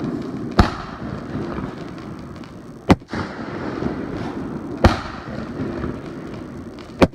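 Fireworks display: four loud shell bursts, about two seconds apart, over continuous noise between the bangs.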